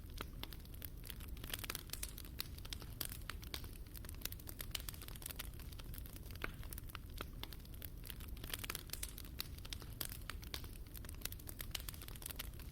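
Wood fire burning in a fireplace, with a steady low rush and irregular crackles and small pops.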